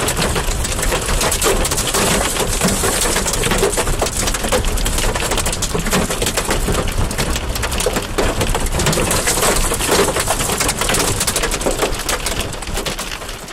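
Hail and heavy rain pelting hard surfaces in a severe thunderstorm: a loud, dense, steady clatter of countless sharp impacts. It fades out near the end.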